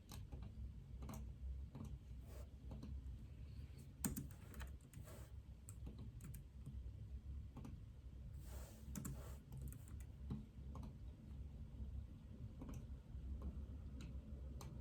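Typing on a computer keyboard: irregular keystrokes with a sharper click about four seconds in, and a short soft hiss a little past halfway.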